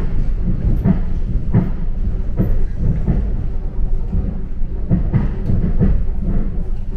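Train running: a steady low rumble with irregular knocks from the wheels on the rails, roughly once a second.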